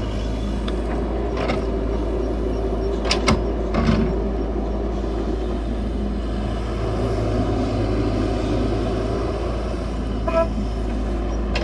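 CAT 312 excavator's diesel engine running steadily under load, with a few sharp metallic clanks about three and four seconds in.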